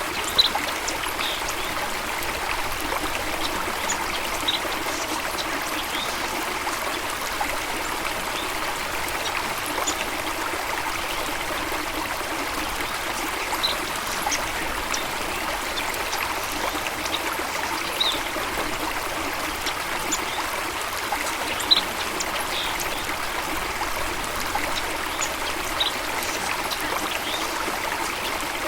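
Steady rushing and trickling water of a stream, with a few short, high bird chirps scattered through.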